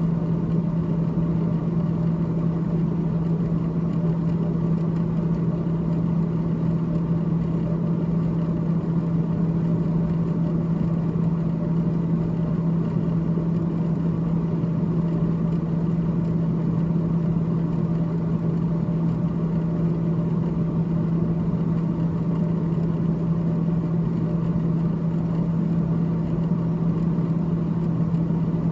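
Freezer fan of a GE GTH18XCTZRBB refrigerator running with a steady, unchanging low hum.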